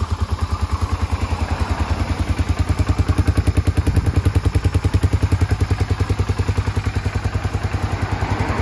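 Yamaha SRV250's 249 cc air-cooled V-twin running steadily through a Supertrap slip-on muffler, with an even, fast exhaust pulse of about ten beats a second.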